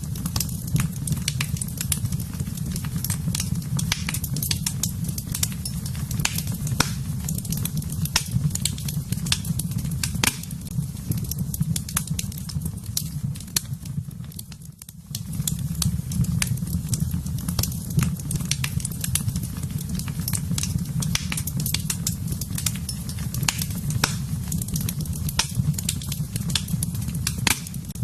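Wood fire in a fireplace crackling, with frequent sharp pops and snaps over a steady low rumble of the flames. The sound briefly dips out about halfway through, then resumes as before.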